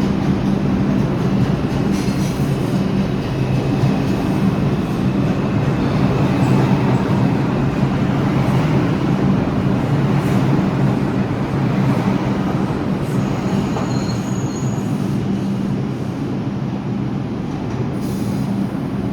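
New York City subway train running through the station with a steady loud rumble and hum, and a faint high wheel squeal about two thirds of the way in.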